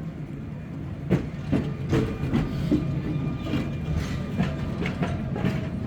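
A Sóller electric tram running on its rails: a steady low rumble with irregular clicks and knocks from the wheels and running gear.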